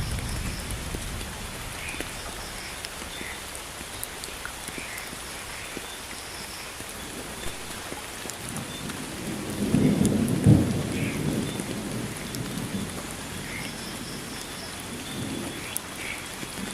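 Steady rain falling in a thunderstorm. A low rumble of thunder dies away at the start, and a louder roll of thunder comes about ten seconds in.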